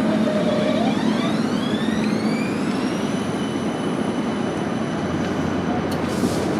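CAF Urbos 3 light rail tram pulling away, its traction motors whining in a stack of tones that rises in pitch for about two seconds and then holds steady over the running noise.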